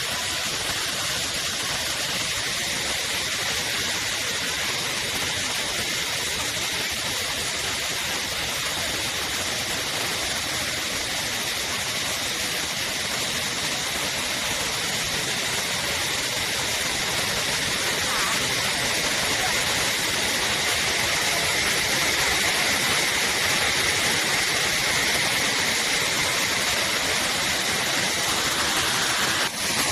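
Steady rush of water at a waterfall, a constant hiss of falling and cascading water that grows a little louder about two-thirds of the way through.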